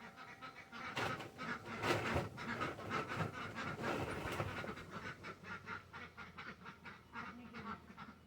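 Ducks quacking in a rapid run of repeated calls, loudest in the middle and trailing off toward the end.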